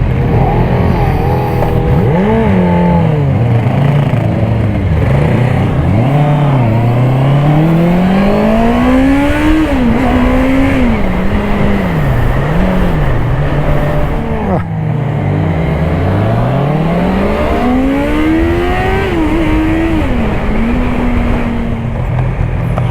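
A Honda CBR650R's inline-four engine heard from the bike while riding. It accelerates in rising sweeps, and the pitch drops sharply at each upshift. It also slows with falling pitch several times, then runs steadily near the end. A steady rush of wind and road noise sits under it.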